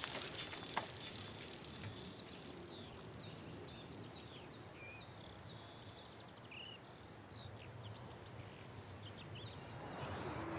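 Faint countryside ambience: a bird calling in a run of short, falling chirps, several a second, starting about two seconds in and trailing off near the end.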